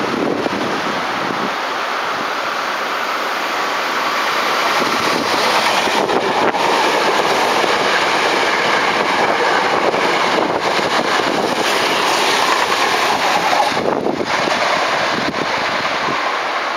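Electric commuter train running past at a station: a steady rush of wheels on rail that swells over several seconds and then eases off, with a few clicks from the rail joints.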